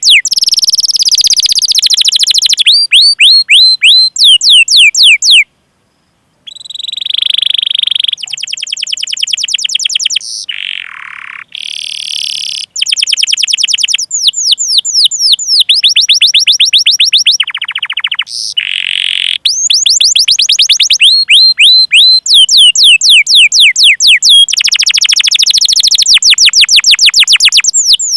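Domestic canary singing long, rapid rolling trills of repeated high chirps that each slide downward in pitch, phrase after phrase with short breaks between them and one silent gap about five seconds in.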